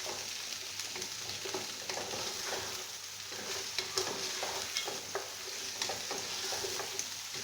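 Chicken pieces frying in hot oil with onions and garlic, sizzling steadily, while a spoon stirs and scrapes around the pan in frequent short strokes.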